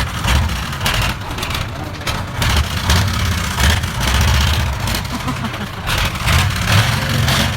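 Truck engine running and revving under strain, a low rumble that swells and falls.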